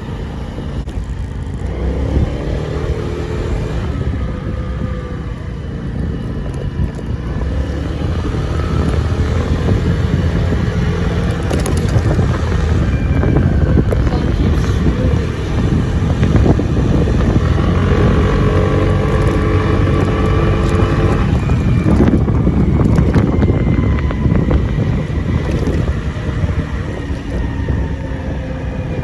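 Small moped engine running while being ridden, its note swelling twice as the throttle is opened, with wind buffeting the microphone.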